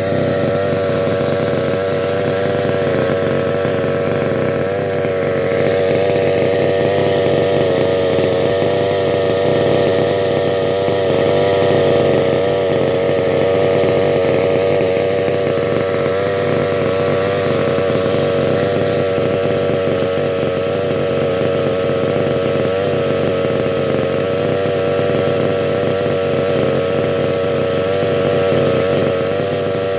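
Rovan RC car's 30.5cc two-stroke engine, fitted with a dual exhaust, running steadily at an even, low speed with only slight wavering in pitch.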